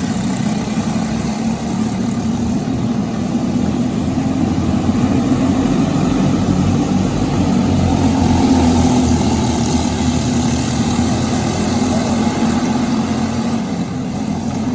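Briggs & Stratton LO206 single-cylinder four-stroke kart engine running under way, growing louder to a peak about eight seconds in and easing off near the end.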